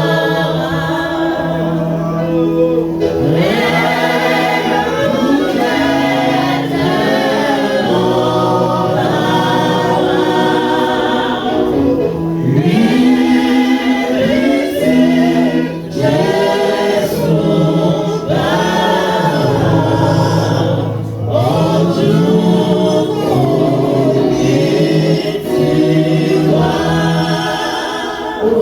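A group of voices singing a gospel worship song together over sustained low accompaniment notes. The song stops abruptly at the end.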